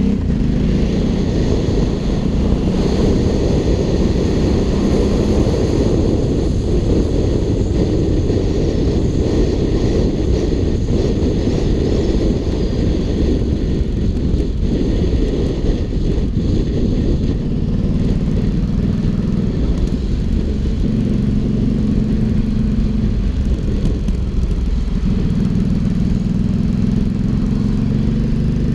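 Ducati Hypermotard 796's air-cooled L-twin engine running through an Arrow aftermarket exhaust while riding. The engine note rises and falls in pitch several times in the second half.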